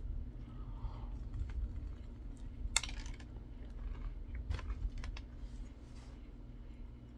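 Scattered small clicks and crinkles from handling a fried chicken sandwich and its wrapper while eating, with one sharper click about three seconds in, over a steady low rumble.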